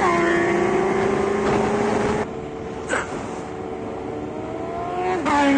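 Motorcycle engine pulling hard, its pitch climbing steadily through the gears, with a shift right at the start. A little after two seconds it backs off and goes quieter. Near the end, a shift drops the pitch sharply as it gets louder again under throttle.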